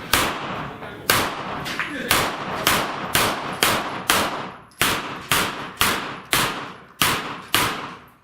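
A steady string of about fourteen gunshots, roughly two a second, each sharp crack followed by a short echoing decay: a shooter working through a course of steel plates.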